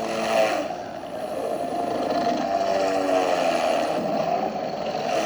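Military attack helicopters flying in close, their engines and rotors making a steady mechanical drone with a slight wavering pitch.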